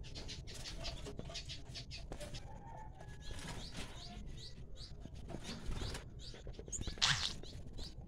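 Caged birds in an aviary chirping in many short, high calls, with a louder noisy burst about seven seconds in.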